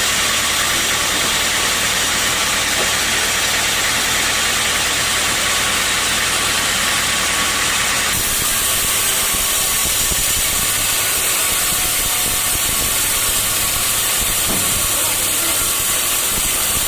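Sawmill machinery running steadily: a loud, even rushing noise over a low motor hum. The sound's character changes abruptly about eight seconds in.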